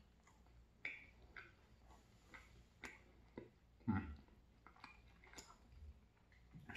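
Faint, scattered wet mouth clicks and smacks of a person chewing pizza with the mouth closed, with one louder smack about four seconds in.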